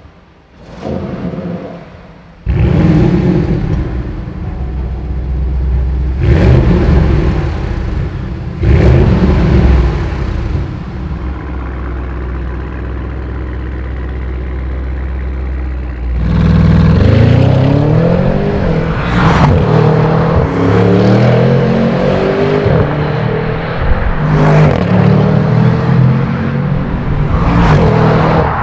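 Audi RS6 C8's twin-turbo V8 heard through an Akrapovič Evolution Line exhaust: revved in several swells, settling to a steady idle, then from about halfway accelerating repeatedly with the pitch rising through the gears.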